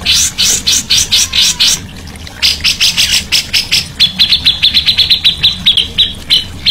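A songbird singing runs of sharp, rapidly repeated chipping notes, with the last run faster and more even, at about eight notes a second.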